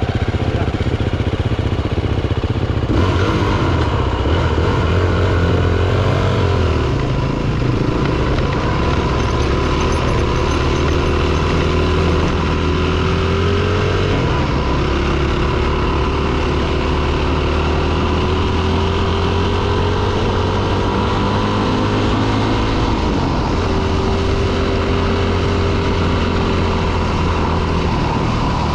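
Dirt bike engine running under way, its pitch rising slowly and dropping back as the throttle changes, with a sharper fall about three-quarters of the way through.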